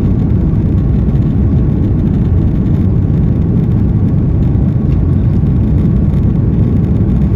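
Steady, loud rumble of an Airbus A330-202's engines and airflow heard from inside the cabin during departure, with a faint steady whine above it.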